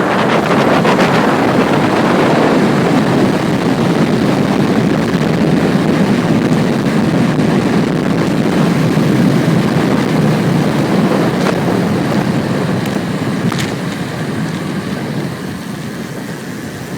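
Wind rushing over the microphone of a bicycle on a descent, a loud, steady rush that eases off over the last few seconds as the bike slows under heavy braking.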